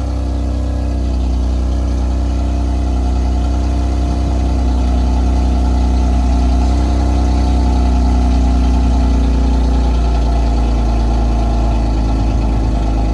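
BMW M4's twin-turbo straight-six idling through freshly fitted catless downpipes, a steady, loud, deep drone that swells slightly a few seconds in.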